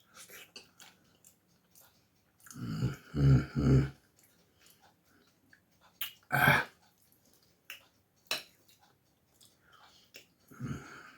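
A man eating rice porridge, with a spoon clicking on the plate and chewing, and a few short low 'mmm' sounds of contentment, the loudest pair a little under halfway through.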